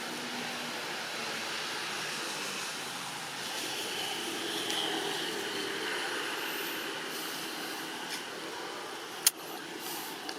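Steady outdoor background noise, like distant traffic, with a single sharp click about nine seconds in.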